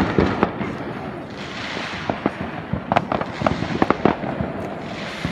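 Fireworks going off: irregular sharp bangs and pops, with a quick cluster of them about three to four seconds in.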